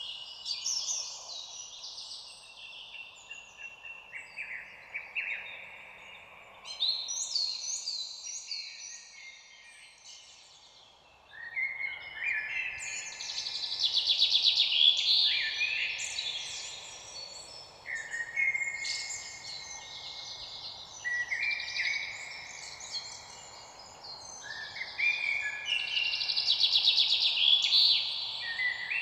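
Several songbirds singing and chirping over one another, with a faint steady background hiss. The song thins to a lull about ten seconds in, then picks up again, busier and louder.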